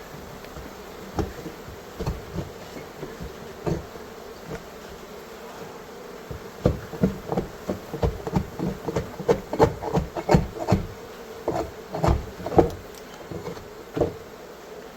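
A mass of honeybees buzzing with a steady hum. Over it comes a run of irregular knocks and thumps, scattered at first and thickest from about six to thirteen seconds in.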